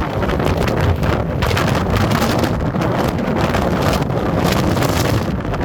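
Strong storm wind blasting across the phone's microphone in loud, gusting rushes.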